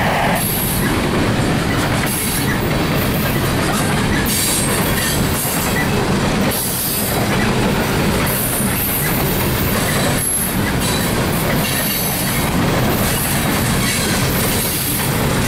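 Loaded coal gondolas rolling past close by: a steady rumble of steel wheels on rail, with a high wheel squeal that comes and goes.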